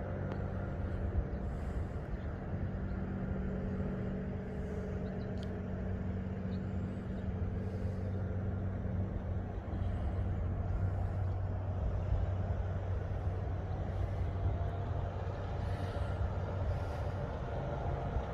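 A motor vehicle running steadily, a low, even engine hum with road noise.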